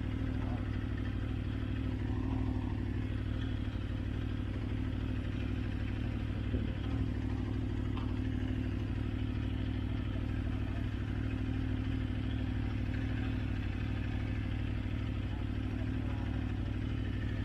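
Motorcycle engine running at a steady cruising speed on the move, with a low rumble and an even, unchanging tone throughout.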